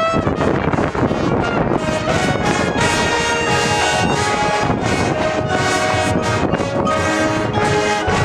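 Marching band brass playing sustained chords over drums.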